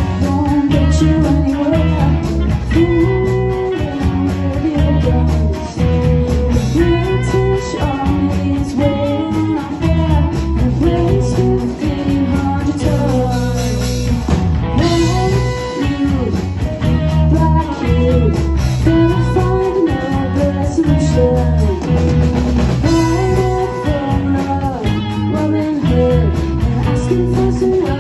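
A band playing a rock song: guitar and drum kit over a steady bass line, with singing at times.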